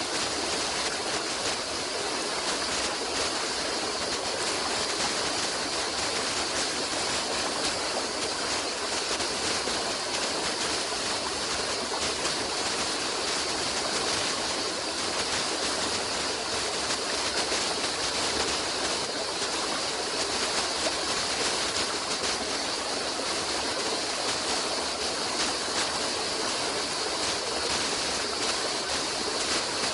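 Flowing stream: water running steadily, a continuous bright rushing with no breaks.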